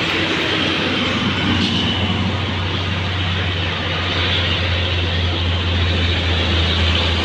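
Road traffic passing on a highway: steady engine and tyre noise, with a low engine hum growing a little stronger in the second half.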